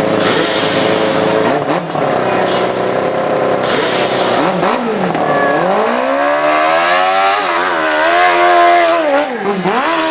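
Dirt bike engine idling, then revving hard as the bike launches up a hill climb: the pitch climbs about five seconds in and is held high at full throttle, dropping briefly near the end before picking up again.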